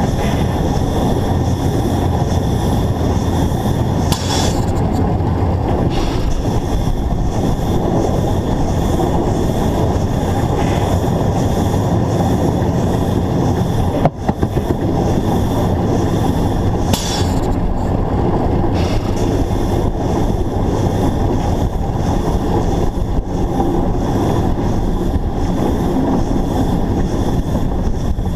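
Narrow-gauge steam locomotive under way, heard close up on the locomotive: a steady heavy rumble of running gear and wheels on rail, with brief hissing, squeal-like flares about 4 seconds in and again about 17 seconds in.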